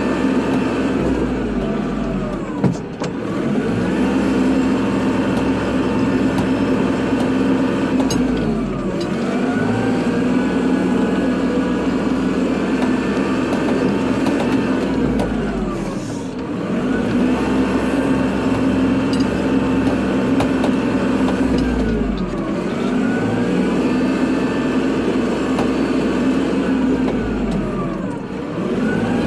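Kubota tractor's diesel engine running steadily under load, its pitch sagging and recovering about every six seconds as the load changes.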